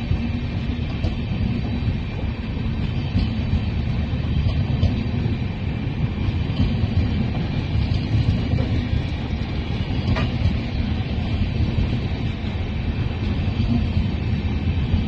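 Passenger coaches of an express train passing at speed: a steady low rumble of wheels on rail.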